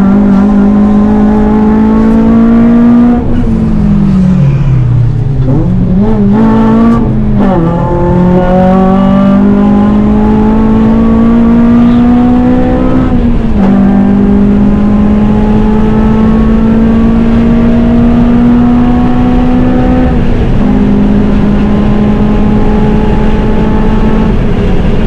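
A Honda Civic Type R's four-cylinder engine and cat-back exhaust are driven hard on track, the note climbing steadily with revs. It drops away under braking about three to five seconds in, with quick throttle blips on downshifts around six to seven seconds in. It then climbs again, with upshifts about thirteen and a half and twenty seconds in.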